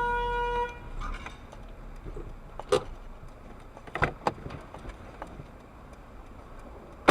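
A car horn honks once, a steady tone lasting under a second, then low traffic noise with a few sharp clicks and a loud click right at the end.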